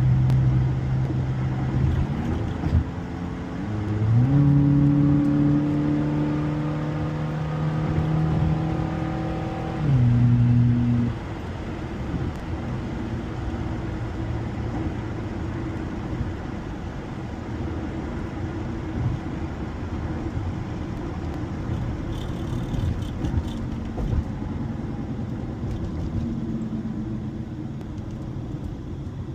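Honda car's engine pulling under acceleration, its pitch stepping up twice early on and then holding high for several seconds before dropping as the throttle comes off. After that, steady road and tyre rumble while the car cruises, the engine barely heard.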